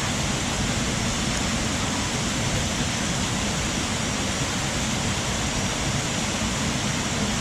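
Steady, loud rushing noise with no breaks or changes.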